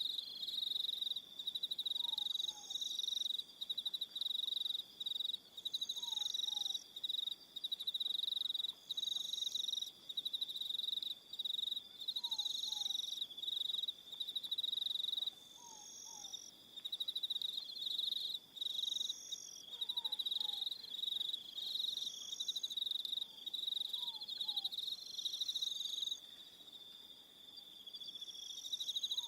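Evening chorus of crickets: a steady high-pitched trill that breaks off briefly now and then. A second, higher chirping call repeats about every three seconds, with faint pairs of short falling notes lower down every few seconds.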